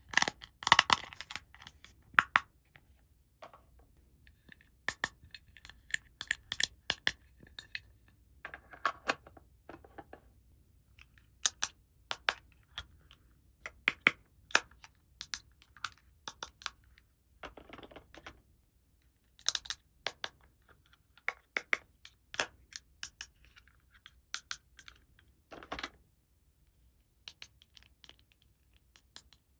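Small plastic toy parts and packaging being handled: irregular sharp clicks and taps, with a few brief scratchy, rustling stretches, like plastic being peeled or torn.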